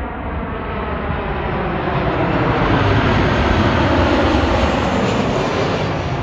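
Jet noise from a Boeing 737-800's CFM56 turbofan engines as the airliner passes close by, swelling to a peak about three to four seconds in and then easing off.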